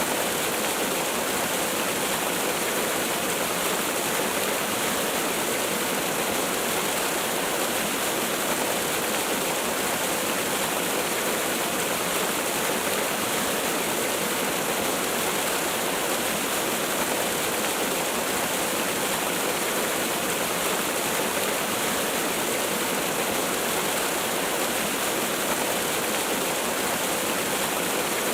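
Waterfall: water falling and splashing in a steady, even rush that never changes.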